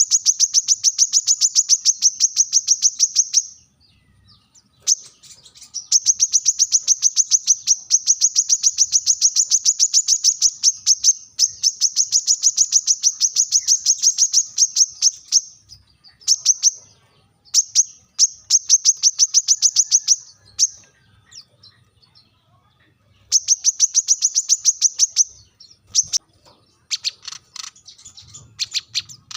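Brown-throated sunbird (kolibri kelapa) giving its sharp, rapid chattering call: long trains of high, clipped chirps at several notes a second, broken by short pauses, with fainter, more scattered calls near the end. This is the challenging call a male uses to answer a rival.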